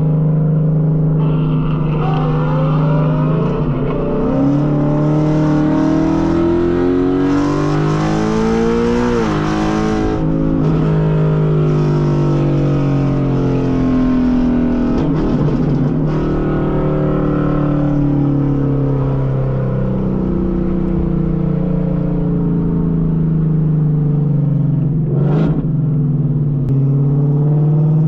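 High-performance car engine under hard acceleration, its pitch climbing for several seconds and then dropping sharply about ten seconds in, as at a gear change. It then rises and falls repeatedly through further pulls, with a brief sharp burst near the end.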